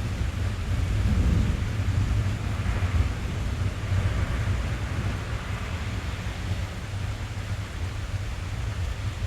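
Rain drumming on a car roof, heard inside the cabin: a steady deep rumble with a softer hiss over it.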